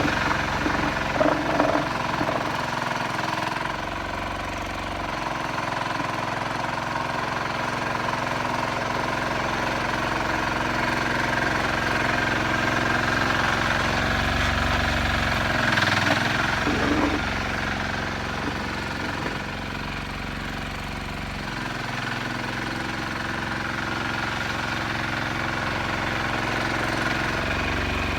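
Sears 8XL garden tractor's engine running steadily under load while it plows snow, getting a little louder and softer as it works.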